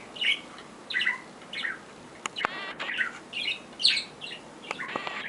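A pet bird calling in a string of short, high chirps and squawks, about two a second.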